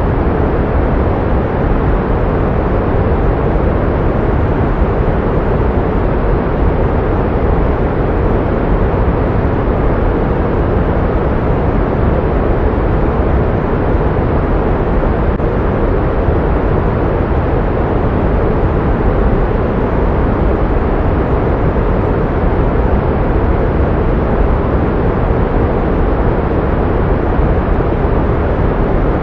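Steady pink noise: a constant, even rushing hiss, fuller in the low end than in the highs, with no change in level or pitch.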